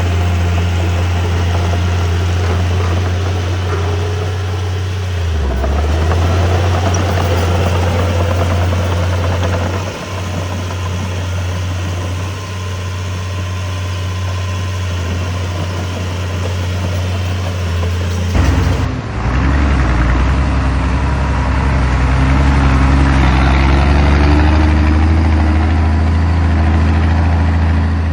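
Heavy diesel engine of earthmoving equipment running steadily with a deep hum. About two-thirds through the sound changes abruptly and the engine note shifts up and down in pitch.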